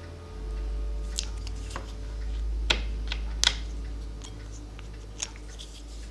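Scattered sharp clicks and short scrapes from cleaning the old cuckoo clock bellows parts by hand, over a steady low hum that comes on just after the start.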